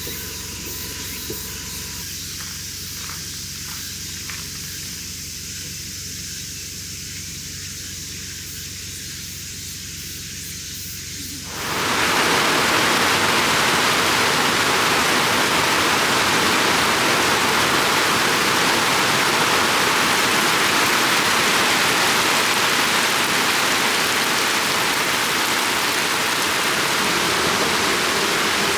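A soft steady hiss with a few faint clicks, then about twelve seconds in, heavy rain starts abruptly: a loud, even downpour.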